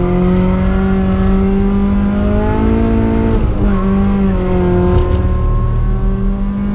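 Supercharged Honda K20 four-cylinder engine in a Civic, heard from inside the cabin, running at high revs under hard acceleration on track. The pitch climbs steadily, dips briefly about three and a half seconds in, then climbs again.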